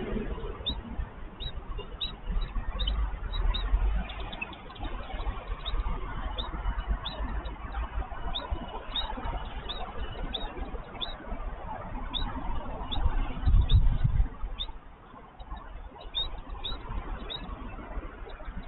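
Short high bird chirps, repeated irregularly a few times a second, over a steady low rumble that swells twice, about three and about thirteen seconds in.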